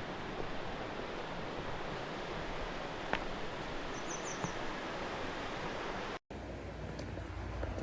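Steady rushing of river water in a canyon. About six seconds in it cuts off abruptly, and a low rumble with small clicks follows.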